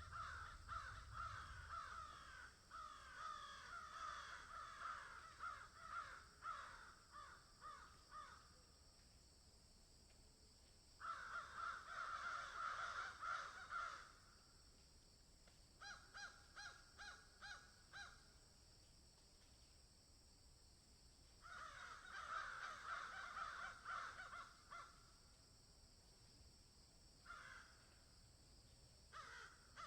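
Faint bird calls in bouts of several seconds with quiet gaps between, including a run of quick repeated notes about halfway through, over a steady faint high hiss.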